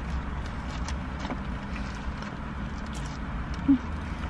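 Closed-mouth chewing of a burger, faint wet clicks over a steady low rumble inside a car. A brief hummed 'mm' comes near the end.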